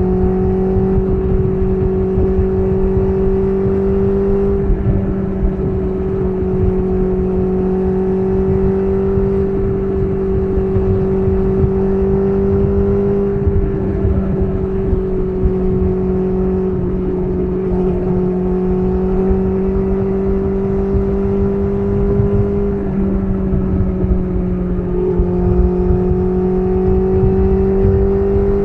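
BMW S1000RR inline-four engine running through an SC Project titanium exhaust at a steady cruising pace, its note holding nearly level with small dips in pitch a few times as the throttle eases.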